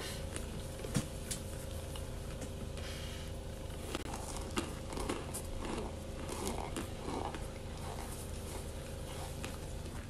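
Close-up chewing of crunchy oven-baked cornstarch chunks, with scattered short sharp crunches and rustling of hands in a bowl of powdery cornstarch, over a steady low hum.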